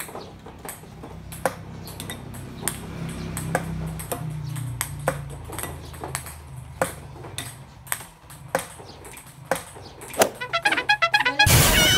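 Ping pong balls bouncing on a cloth-covered table and hitting ceramic bowls, giving a string of separate sharp clicks. Near the end a ball bounces faster and faster as it settles, and a loud brief burst with a ringing tone follows right at the end.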